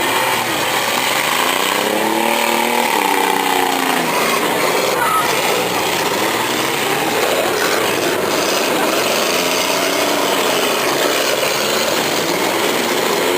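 Demolition derby car engines running hard in a steady din, one revving up and back down twice.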